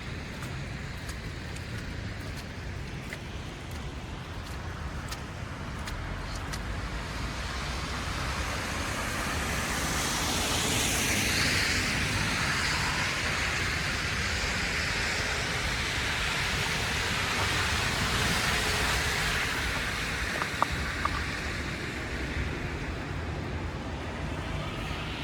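City street traffic: car tyres hissing as vehicles pass, building to a peak around the middle and fading. A couple of small clicks come near the end.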